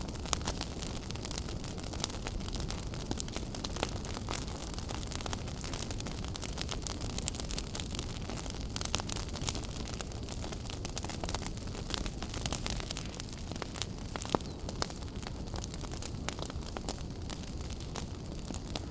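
Wood fire burning in a fireplace: a steady low rush of flames with frequent sharp crackles and pops, a few of them louder than the rest.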